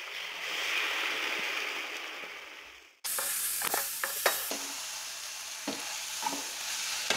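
Onions and capsicum frying in a metal kadhai as cornflour-and-water slurry is poured in: the sizzle swells, then fades and breaks off about three seconds in. The sizzle then resumes while a wooden spatula stirs, with short scrapes and knocks against the pan.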